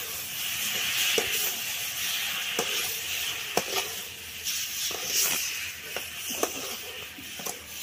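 Oyster mushrooms frying and sizzling in an onion-tomato masala in a metal pan while a spoon stirs them, knocking against the pan about once a second.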